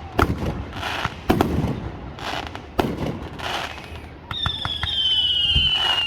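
Aerial fireworks going off: sharp bangs every second or so, each followed by a crackling trail. Past the middle a whistling firework sounds a loud whistle that falls slowly in pitch for about two seconds.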